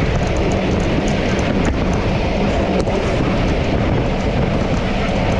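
Steady, loud rush of wind over a microphone moving at speed, a rumble and hiss, with a couple of faint clicks near the middle.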